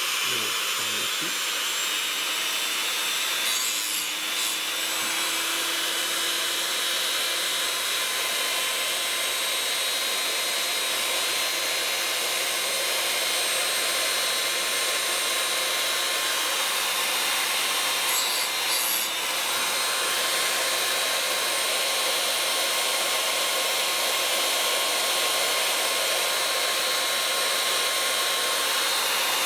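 Toolland electric chainsaw-chain sharpener running, its grinding disc grinding the chain's cutter teeth: a steady motor whine with a rasping grind. The sound dips briefly twice, once about four seconds in and again about two-thirds of the way through.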